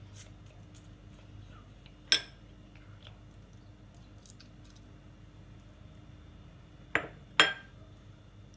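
Three sharp, ringing clinks of tableware: one about two seconds in, then two close together near the end.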